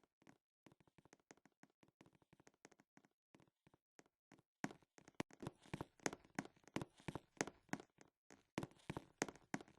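Rapid, irregular light clicks, faint and sparse at first, then louder and denser from about halfway.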